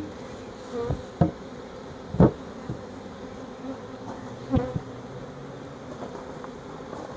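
A honeybee swarm buzzing as a steady hum, broken by several sharp knocks, the loudest about two seconds in.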